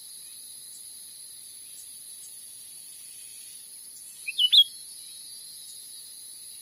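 Cucak ranting (a small bulbul) gives one short call of a few quick chirping notes about halfway through, over a steady high drone of forest insects. It is a lure recording used to draw the wild bird in.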